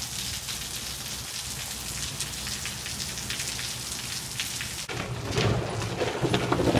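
Steady rain falling, with single drops striking close by, getting heavier and louder about five seconds in.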